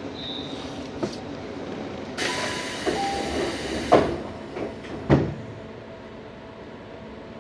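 Inside a Tobu 634 series railcar at a station stop: a burst of air hiss, then two heavy thumps about a second apart, over a steady low hum. This is the pneumatic doors closing before departure.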